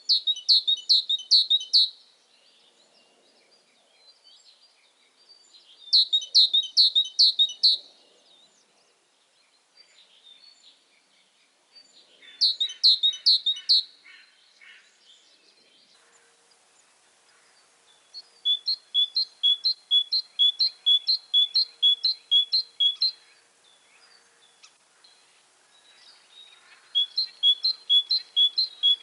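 A songbird singing short, loud phrases of rapidly repeated clear notes, about five to a phrase, with pauses of several seconds between them. From about two-thirds of the way in, a longer run of paired notes repeats about three times a second.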